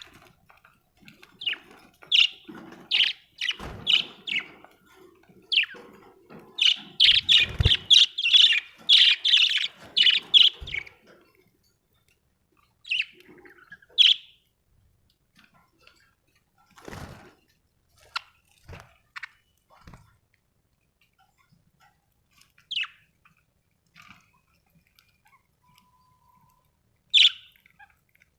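Budgerigars chirping: a busy run of quick, short chirps for about the first eleven seconds, then only scattered single chirps, with a few dull knocks in between.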